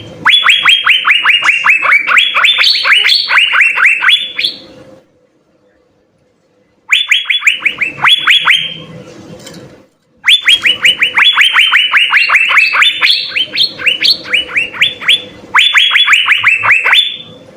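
Asian fairy-bluebird (cucak biru) singing fast runs of sharp, down-slurred whistled notes, about six a second. The runs are several seconds long, with a pause of about two seconds a third of the way in and a shorter break about halfway.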